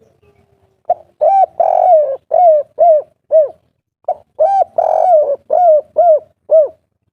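Spotted dove of the 'kuk 3' song type cooing loudly, two phrases about a second apart. Each phrase is a short opening note, a longer rolling coo, then three short coos.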